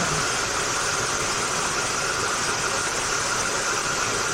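Steady rushing air from a running blower fan, with a faint high whistle over it.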